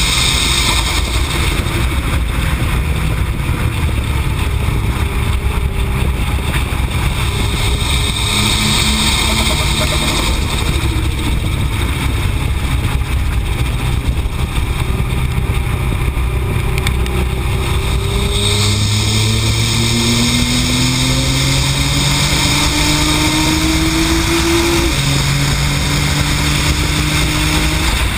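Modified Nissan GT-R's twin-turbo V6 under hard acceleration on its low boost setting, pitch climbing through the revs and dropping at an upshift near the end. Steady wind and road roar over the externally mounted camera.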